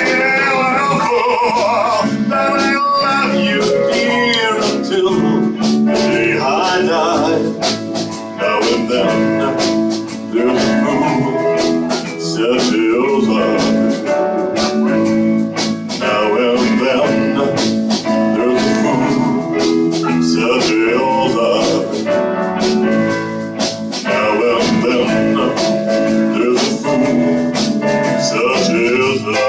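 Live band playing a slow rock-and-roll ballad, with guitar and a steady drum beat carrying the song between sung lines.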